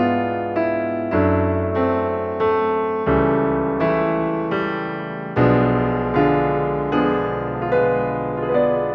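Background piano music: a slow, gentle melody of single notes and chords.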